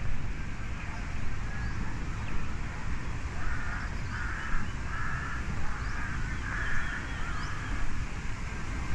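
A crow cawing: a run of about six harsh calls in quick succession, starting about three and a half seconds in. Faint chirps of small birds and a steady low rumble run underneath.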